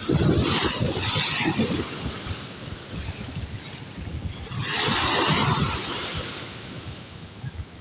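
Sea waves breaking and washing in, in two surges: one at the start and another about five seconds in. Wind buffets the microphone throughout.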